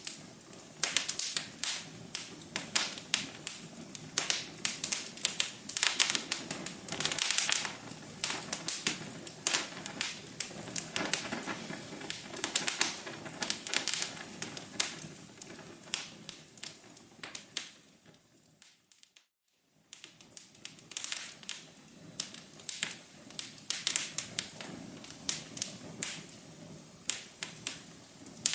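Wood fire crackling in a fireplace: irregular sharp pops and snaps over a soft, steady hum. About two-thirds of the way through, it fades down to a second of silence and then starts again.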